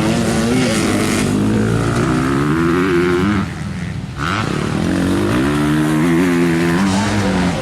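Motocross motorcycle engines revving up and down as the bikes race past, with a short lull about three and a half seconds in before the revs climb again.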